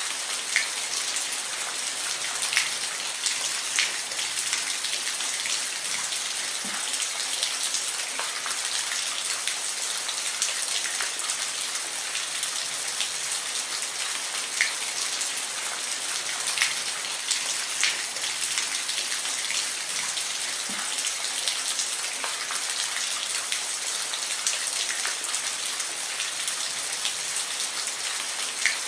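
Steady rain, a constant hiss with scattered individual drops ticking sharply on a surface.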